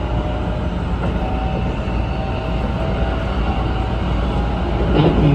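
Keikyu 1500 series electric train running, heard from the driver's cab: a steady rumble of wheels on the rails. A voice starts just before the end.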